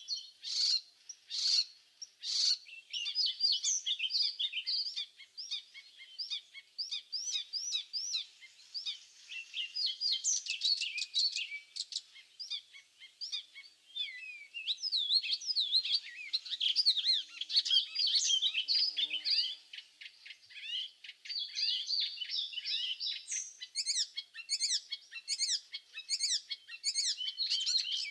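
Several small songbirds singing and chirping together, a dense, high-pitched chorus of quick overlapping notes and trills with no pause.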